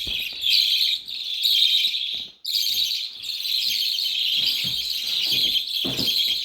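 Young budgerigars giving harsh, nearly continuous begging calls: hungry fledglings demanding food. The calling breaks off for a moment a little over two seconds in.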